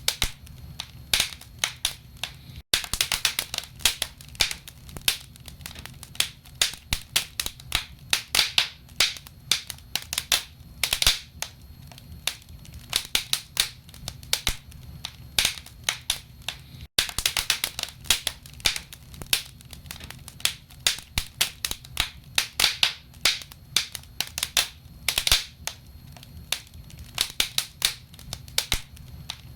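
Wood fire burning in a fireplace, crackling with many irregular sharp pops and snaps over a low steady rumble.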